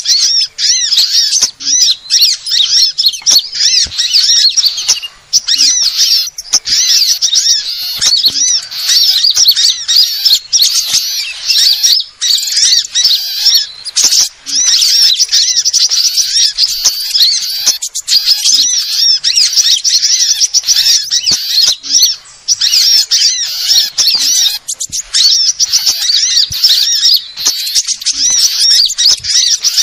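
Bird-lure recording of small songbirds such as sunbirds: a dense, unbroken mass of high, rapid chirps and twitters from many birds at once, with a few brief breaks.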